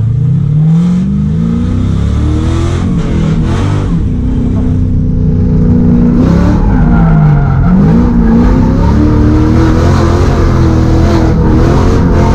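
LS V8 engine of a Nissan S13 Silvia drift car, revving hard. Its pitch climbs, drops and climbs again several times as the throttle is worked through the drift.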